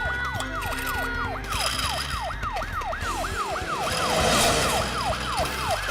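Cartoon ambulance siren sounding in quick repeated sweeps, each rising and falling in pitch, about three a second.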